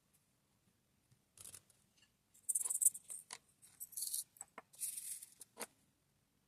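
Small plastic diamond-painting drills rattling and clicking, in three short bursts of rattle with separate sharp clicks between them.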